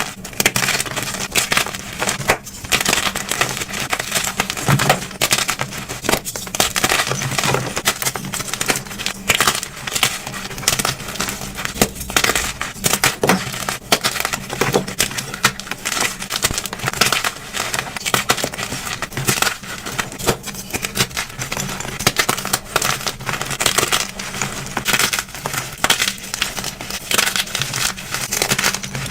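Blocks of dyed gym chalk being crushed and crumbled in a continuous series of irregular crunches and crackles.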